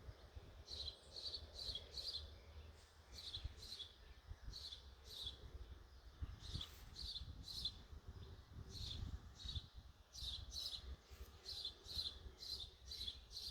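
Birdsong: a small bird repeating short, high chirps in quick runs of three or four notes, with a short pause between runs, over a low steady rumble.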